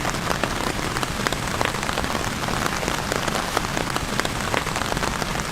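Steady rain falling on a surface, a dense hiss with many individual drops ticking sharply through it.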